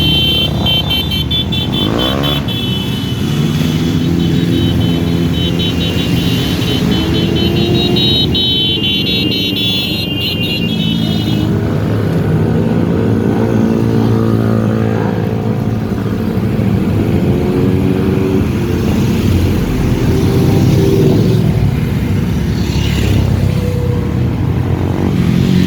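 Several motorcycles riding in a group, their engines running with pitch rising and falling as they speed up and slow down. A steady high tone sounds over the engines for roughly the first eleven seconds.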